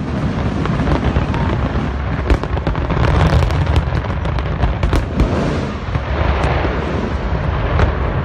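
Fireworks display with a dense barrage of aerial shells bursting: a continuous rumble of booms with many sharp cracks throughout.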